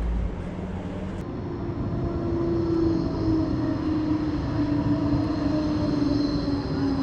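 A passing vehicle's steady droning hum, slowly falling in pitch, with a faint high whine above it that sets in about a second in.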